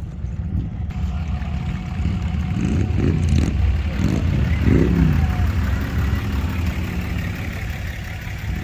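Motor vehicle engine passing close, revving up and down several times near the middle, where it is loudest, over a steady low rumble.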